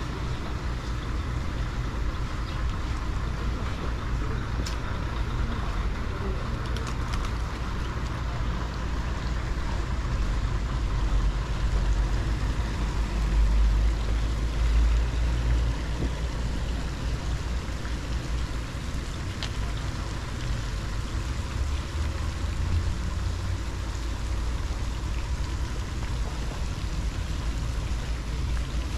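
Outdoor street ambience: a steady hiss of traffic with a low rumble that swells and fades again about halfway through, like a vehicle passing, and a few faint clicks.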